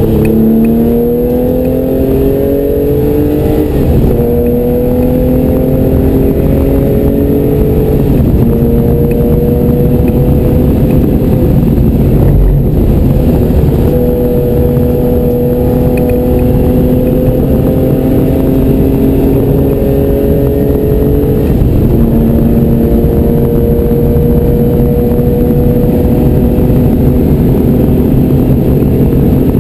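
Porsche 911 (964-generation) air-cooled flat-six heard from inside the cockpit, accelerating hard up through the gears: the pitch climbs within each gear and drops at each of four upshifts.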